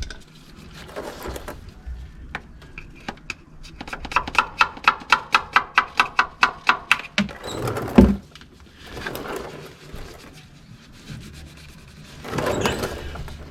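Hand tools handled while working on an oil drain plug and its old gasket: a run of evenly spaced metallic clicks, about four or five a second, for about three seconds, then a single sharp knock, with light rubbing and scraping before and after.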